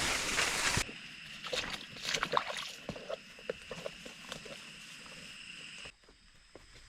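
Heavy rain and wind hiss that cuts off abruptly under a second in, followed by scattered knocks, taps and clicks over a steady high-pitched drone that stops near the end.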